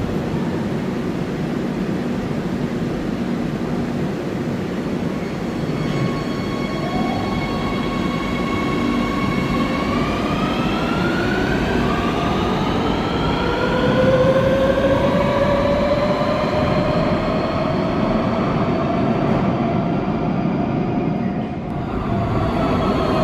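Electric train running with a steady rumble. From about six seconds in, a motor whine joins it and rises in pitch as the train gathers speed, then levels off near the end.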